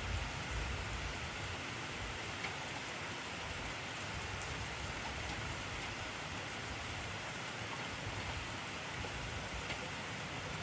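Intense rainfall: a steady, dense hiss of rain, with a low rumble that thins out over the first two seconds.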